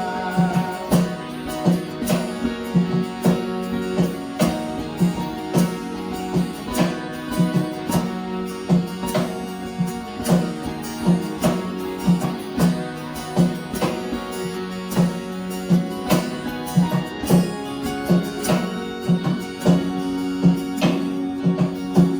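Instrumental interlude of a worship song: acoustic guitar strumming a steady rhythm, about two strums a second, over sustained chords.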